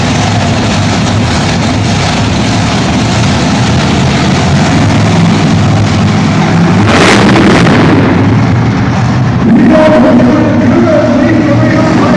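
Monster truck engine running loud, with a rushing burst about seven seconds in and the engine growing louder again near ten seconds. Music plays underneath.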